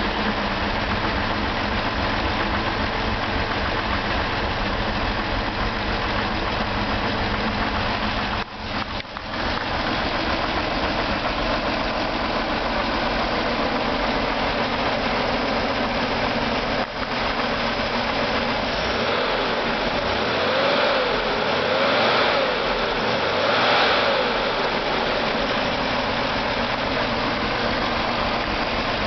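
Turbocharged Corvair air-cooled flat-six running on a test stand, idling steadily on its initial settings. About two-thirds of the way in it is revved up and back down twice.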